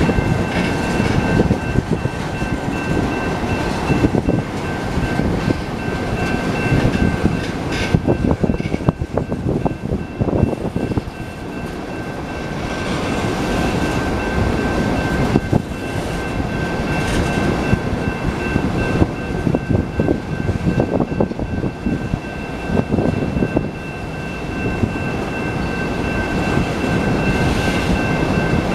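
Freight train cars rolling past a road crossing: a continuous rumble of steel wheels on rail, studded with rapid clicks as the wheels pass over joints. A steady high-pitched tone sits over the rumble.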